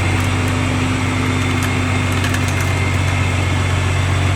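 Engine of a forage corn harvester running steadily: an even, deep drone with a thin steady whine above it.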